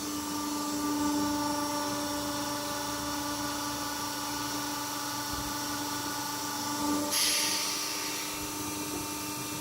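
Colly 350-ton flattening press running with a steady whine at several fixed pitches, with a burst of hiss about seven seconds in.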